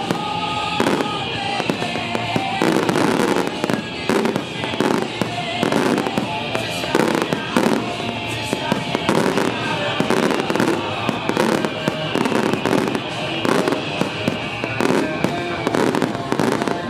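A dense fireworks barrage: aerial shells and ground-fired comets going off in rapid, overlapping bangs, with several whistles falling in pitch.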